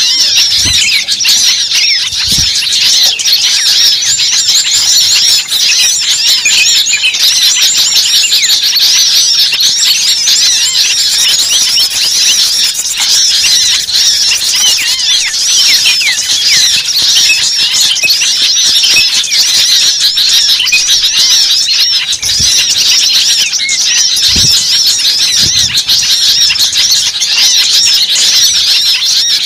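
A dense chorus of many birds chirping and squawking at once, with countless overlapping high calls. A few low thuds sound now and then.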